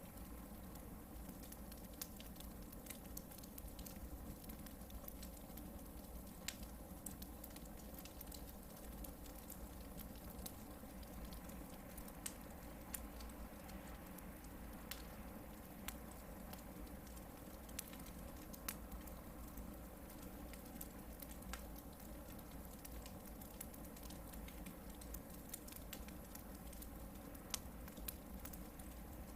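Campfire of hardwood logs burning, with scattered irregular crackles and snaps, a few of them sharper and louder, over a faint steady low rumble.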